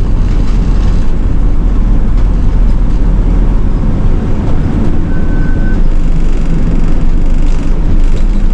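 City bus running along the road, heard from inside: a steady low engine and drive rumble with road noise. A single short beep sounds about five seconds in.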